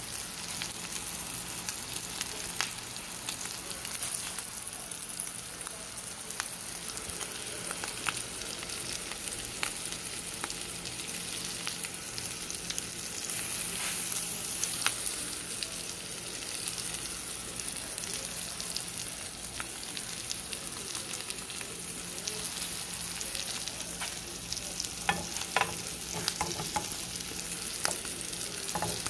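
Egg, peppers and onions frying in a hole cut in a slice of bread in an oiled skillet: a steady sizzle with scattered small pops, and a few louder clicks near the end.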